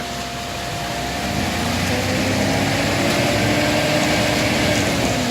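An engine running steadily, growing louder and rising slightly in pitch from about a second and a half in.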